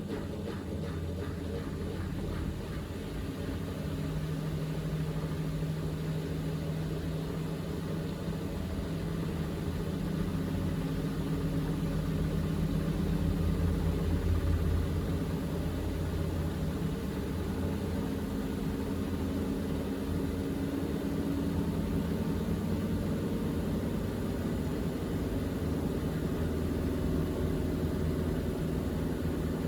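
Miele W3985 WPS washing machine in its final high-speed spin, the drum accelerating from 1200 toward 1400 rpm: a steady motor and drum hum with a low whine. It grows a little louder toward the middle, then holds steady.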